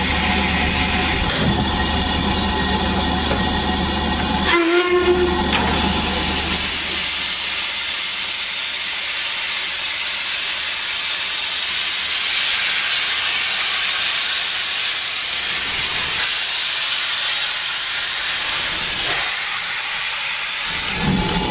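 Steam locomotive letting off steam: a loud, steady high hiss that takes over after about six seconds, preceded by a lower rumble and a brief high tone about five seconds in.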